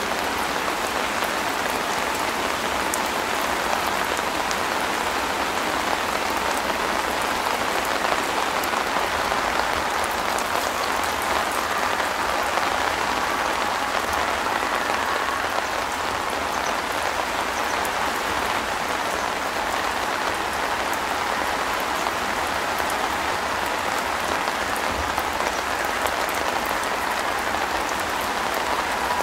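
Steady rain falling on a camping shelter's fabric roof, an even hiss with scattered small ticks, unchanging throughout.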